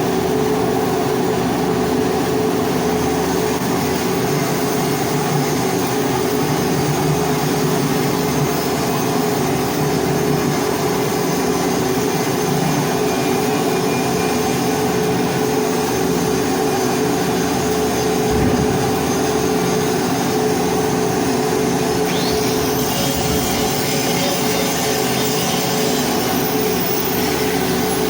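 Arc welding hardfacing a pipe: a steady hiss with a constant machine hum from the welding setup, running evenly without a break.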